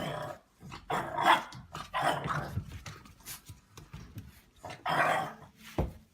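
A dog barking several times in separate loud calls, with a sharp knock just before the end.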